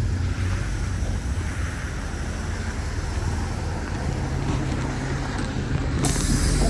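City bus engine running with steady road noise, its low hum shifting up in pitch about four seconds in.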